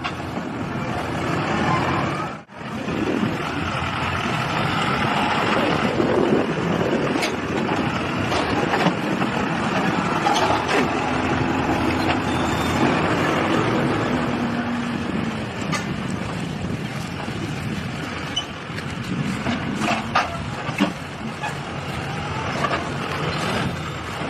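Heavy machinery running steadily, with a brief break in the sound about two and a half seconds in.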